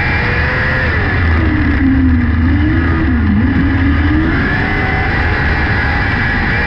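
A 600cc micro sprint car's engine at racing revs. The pitch drops about a second in as the car eases off into a turn, wavers low, then climbs back around four seconds in as it accelerates out.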